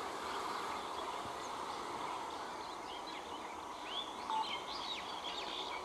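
Several short bird chirps and whistles, bunched a little past the middle, over a steady background noise of the open station.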